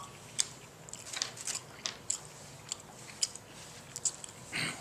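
Chewing food close to the microphone: scattered wet clicks and smacks of the mouth, with a short breathy sound near the end.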